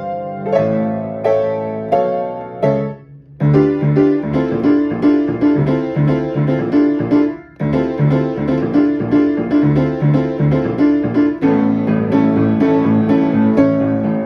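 Piano playing a fast, driving rhythmic piece with dense repeated chords. The music breaks off almost completely twice, about three seconds in and again about seven and a half seconds in, and each time comes straight back in.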